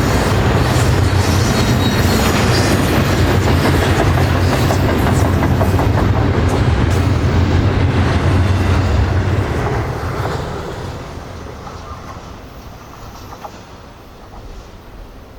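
Freight train cars rolling past at close range, steel wheels clacking over rail joints with a deep rumble; about ten seconds in the sound fades steadily as the end of the train passes and moves away.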